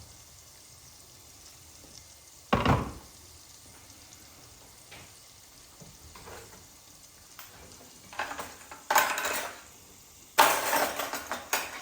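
Liquid vegetable stock poured into a hot pan and sizzling, in loud bursts near the end, with a short knock of kitchenware about two and a half seconds in.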